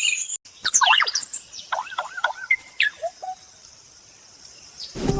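Songbird calls: a quick run of sweeping, swooping chirps and whistles over the first three seconds, then only a faint steady hiss. Music comes in near the end.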